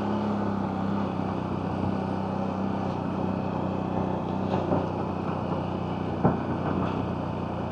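CFMoto CForce 1000 Overland ATV's V-twin engine running at a steady cruise, with the rush of tyres and wind over it. A few short sharp clicks sound along the way, the clearest about six seconds in.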